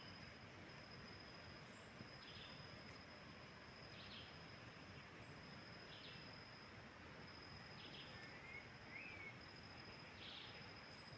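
Faint riverside ambience: a steady high insect drone, with a short call repeating about every two seconds and a couple of faint bird chirps.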